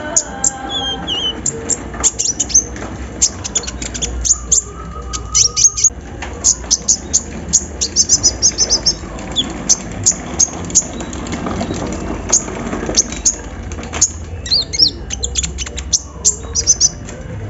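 Kolibri ninja sunbird singing a fast, continuous stream of sharp high chirps and short trills. This is a song that keepers train with an imitation of an embroidery machine.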